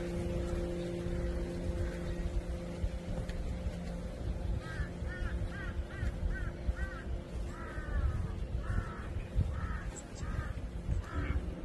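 A bird calling repeatedly in a run of short, arched calls, about two a second at first and then in small groups. Under it, a low steady hum fades out about four seconds in.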